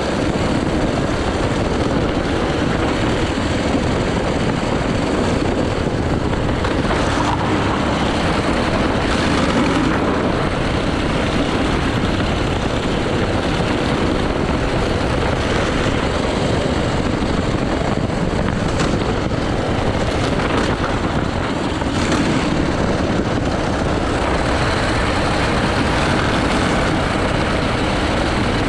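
80cc racing kart engine running continuously under load through a lap, at a fairly even pitch and level, mixed with a dense rushing noise.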